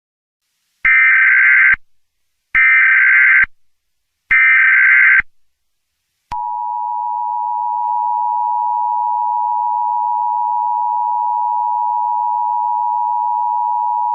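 Emergency Alert System tones. First come three short, screeching blasts of SAME header data, each about a second long and about a second apart. About six seconds in, the steady two-tone EAS attention signal starts and holds.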